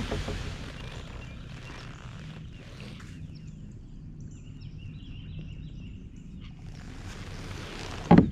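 Faint bird chirps, a few seconds long starting about three seconds in, over a steady low wind rumble. A sharp click at the start and a loud thump near the end.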